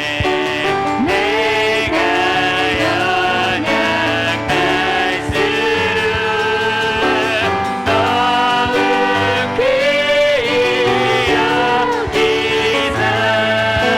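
Worship music: vocalists singing a praise song with piano accompaniment, the voices holding and sliding between sustained notes.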